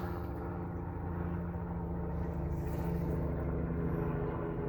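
Car engine idling steadily with a low hum.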